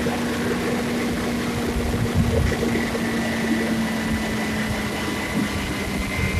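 Natural-gas-fuelled garbage truck engine running steadily at low revs. Its hum drops slightly in pitch partway through, over a faint high whine.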